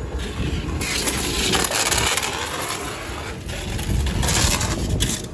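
Footsteps crunching through fresh snow in two long stretches, over a constant low rumble of wind on the microphone.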